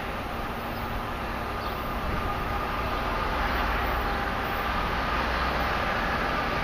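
Diesel freight train approaching; its rumble grows steadily louder from about two seconds in.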